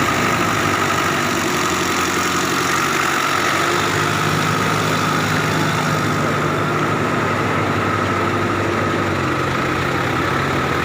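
Vehicle engine running steadily at low speed, its pitch shifting slightly about four seconds in and again near the end.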